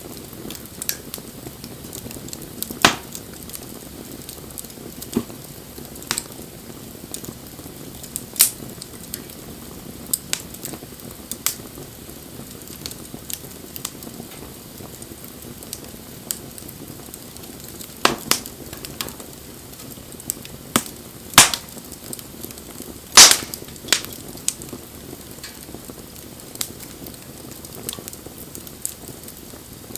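Wood campfire burning: a steady hiss with irregular sharp pops and crackles, the loudest about two-thirds of the way through.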